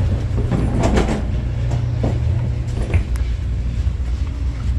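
Steady low rumble inside an airliner cabin as the plane rolls for takeoff.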